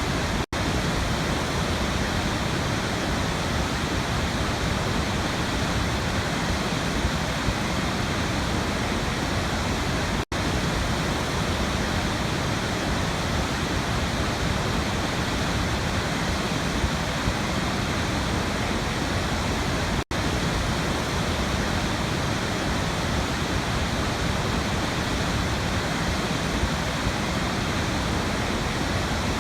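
Waterfall: water falling and splashing in a steady, unbroken rush. The sound cuts out for an instant three times, about ten seconds apart.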